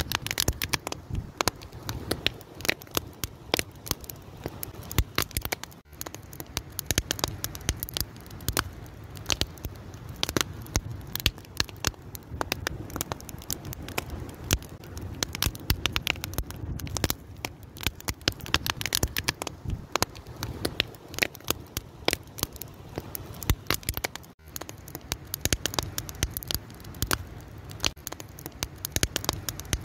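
Wood fire burning, with dense, irregular crackling and popping over a low steady rumble of the flames.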